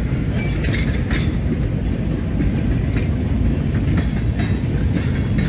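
Freight train of covered hopper cars rolling past: a steady rumble of steel wheels on rail, with a few sharp clicks.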